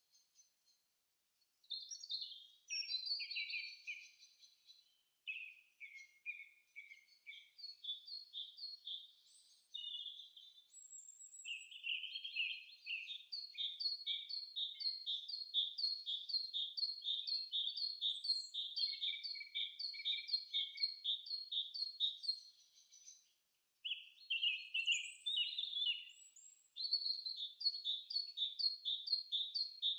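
Small birds chirping and trilling in quick repeated high notes, starting about two seconds in and breaking off briefly near the end.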